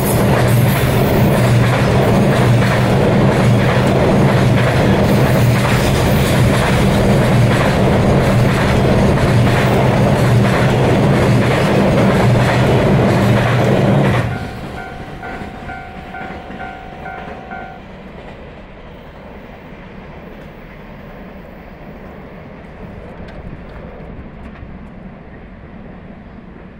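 Container freight train wagons rolling past close by, their wheels clacking over the rail joints. About 14 s in the tail of the train passes and the sound falls away to a distant rumble. Just after, a short run of evenly spaced beeps sounds, about two a second for a few seconds.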